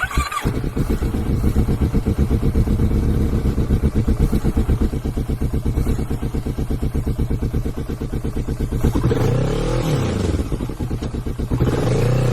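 Motorcycle engine running with an even pulsing beat, then revved up and back down twice near the end.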